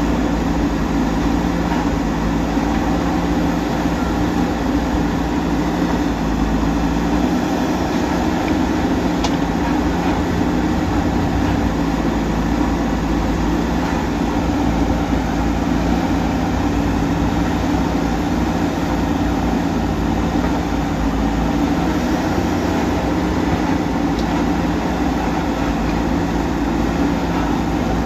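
Heavy diesel engine of a JCB backhoe loader or tractor running steadily, a continuous drone that holds the same pitch throughout.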